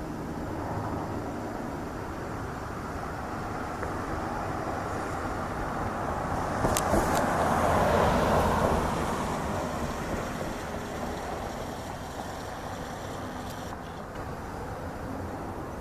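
A vehicle passing by: a broad rushing noise that builds to a peak about halfway through and then fades, with a couple of short clicks just before the peak.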